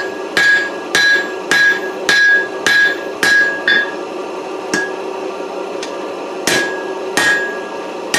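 Rounding hammer striking hot 4140 steel over an anvil horn, drawing out a square taper: blows come about twice a second, each with a short metallic ring. After about four seconds there is a pause broken by a single blow, then a few more strikes near the end.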